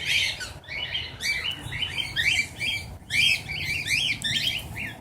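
A flock of small aviary birds chirping and chattering close by. Many quick, overlapping calls and short up-and-down sweeps follow one another without a break.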